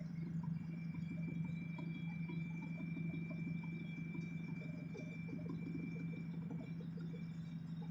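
Helicopter cabin noise: a steady low engine hum with a fainter constant high whine, and light irregular ticking over it.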